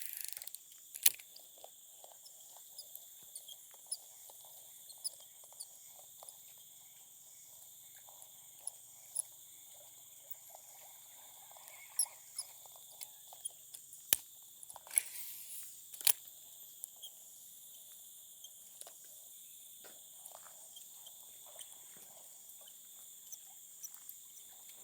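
Insects, crickets or similar, trilling steadily at two high pitches. Scattered sharp clicks and a few brief rustles sound over it.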